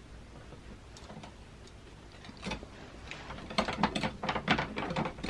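Old door knob and lock hardware being worked by hand: scattered light metallic clicks that grow into a busy run of clicking and rattling in the last couple of seconds.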